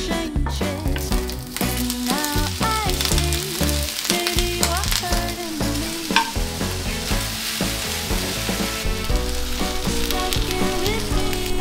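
Food frying and sizzling in a pan, a steady hiss heard under background music with singing.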